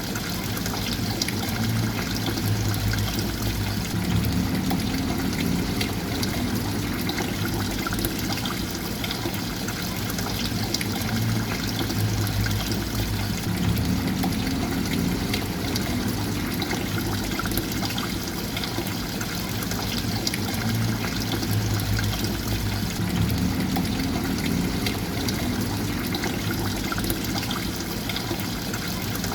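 Steady flowing, trickling water with no break. A low swell recurs about every nine to ten seconds.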